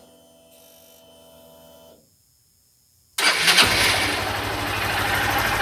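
Honda CG 160 Fan motorcycle's single-cylinder engine being started: a faint whine for about two seconds as the fuel-injection pump primes, then a second later the electric starter cranks it and it catches and settles into an even idle.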